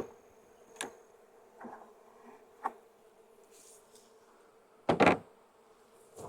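Honeybees buzzing around an open hive: a faint, steady hum. A few light clicks and a loud double knock about five seconds in break through it.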